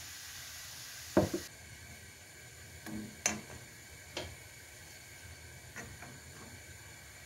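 Household objects being handled and set down: a sharp knock about a second in, then a few lighter knocks and clinks, one with a brief ringing tone, over a steady low hiss.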